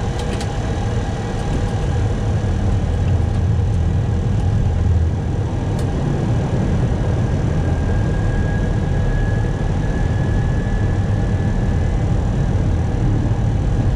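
Steady flight-deck noise of an Airbus A321 in flight: a low rumble of airflow and engines with a few faint steady tones above it.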